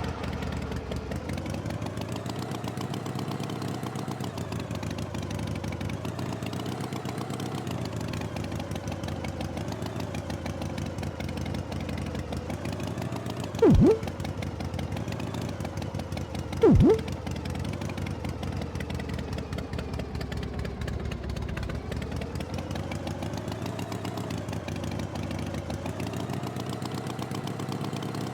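Tractor engine running steadily, its pitch wavering slowly up and down. Twice, about three seconds apart, a short loud tone slides sharply down in pitch.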